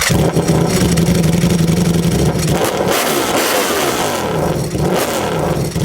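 Ducati Panigale V4 motorcycle's V4 engine running loud through a custom exhaust, holding a steady pitch with some wavering of revs midway.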